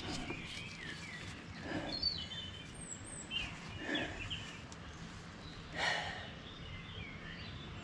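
Wild birds chirping and calling in short, scattered phrases, with a few soft knocks from work close by.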